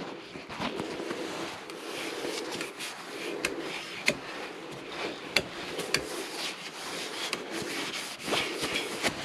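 Wood being handled and rubbed at the workbench: a scuffing rub with scattered light knocks and clicks of wooden pieces.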